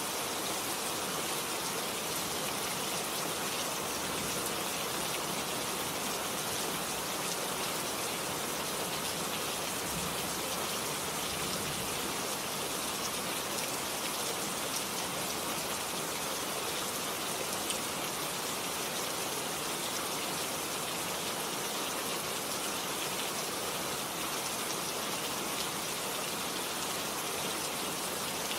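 Steady rain falling on a garden, a constant even hiss with scattered drop ticks.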